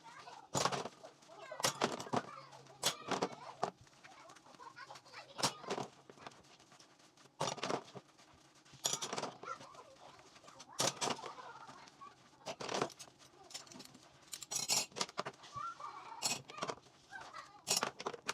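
Dishes and utensils clinking and clattering at irregular intervals, some strikes in quick clusters, as they are hand-washed and handled.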